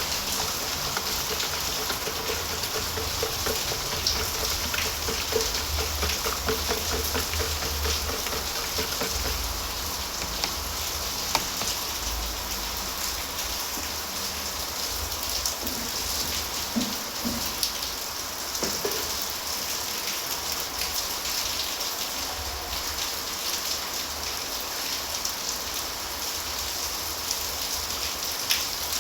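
Steady rain falling, an even hiss throughout, with a few faint clicks and some low rumbling.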